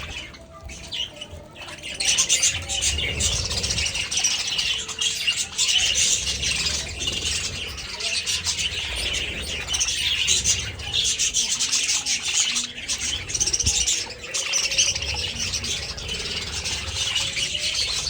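A flock of budgerigars squawking and chirping together in a dense, continuous chatter.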